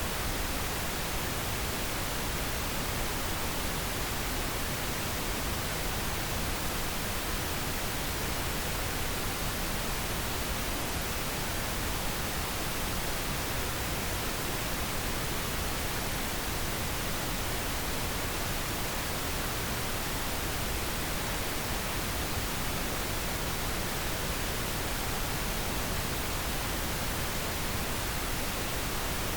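Steady, unbroken pink noise: an even hiss across the whole range, unchanging in level.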